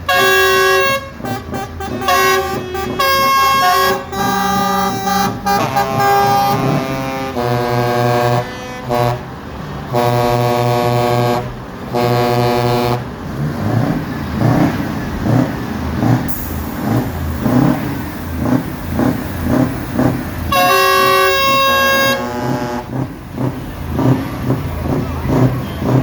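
Truck air horns blown in a run of long blasts at different pitches, several horns sounding together like a horn band, over about the first half and again briefly near the end. Between the horn blasts there is a low rhythmic pulsing.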